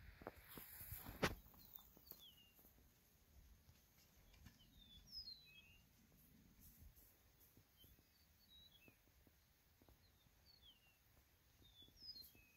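Faint songbird chirps: short, high notes that slide downward, repeated every second or so. A single sharp click about a second in is the loudest sound.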